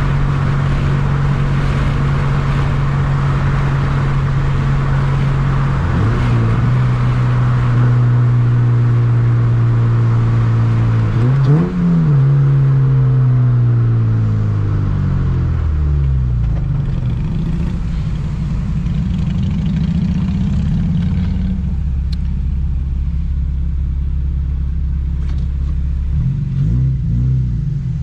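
2007 Honda Civic Si's four-cylinder engine under way. It holds a steady pitch, drops after a gear change, and gives a quick rev blip. It then winds down as the car slows, with road noise fading. It settles to a low steady idle and gets one more short throttle blip near the end.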